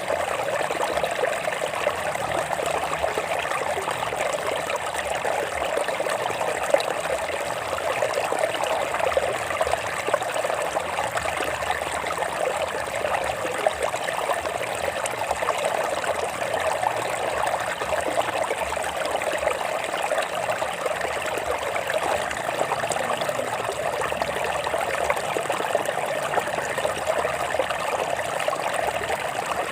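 Water flowing over rocks in a stream, a steady, unbroken splashing rush.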